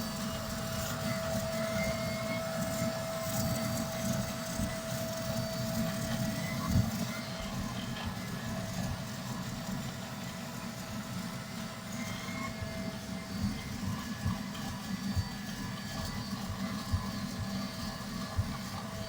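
Vacuum cleaner running steadily with a held hum, used to vacuum carpet edges and stairs before cleaning. A few short knocks sound over it, the loudest about seven seconds in.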